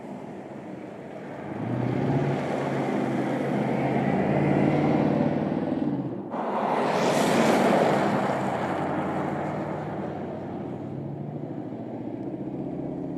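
BMW X6 driving: the engine drone grows louder and climbs slightly in pitch under acceleration, breaks off suddenly about six seconds in, then gives way to a loud rush of wind and road noise that eases into a steadier drone.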